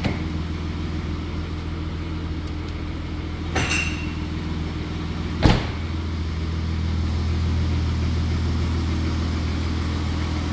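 First-generation Honda Pilot's V6 engine idling steadily. A car door shuts with a sharp thump about five and a half seconds in, after a brief clatter a couple of seconds earlier.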